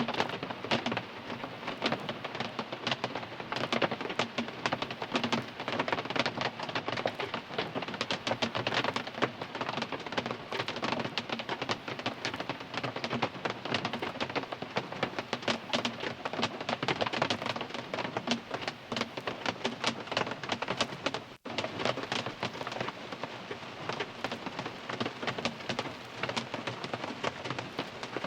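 Steady rain drumming on a car's roof and windows, heard from inside the car as a dense patter of drops. The sound cuts out for an instant about three-quarters of the way through.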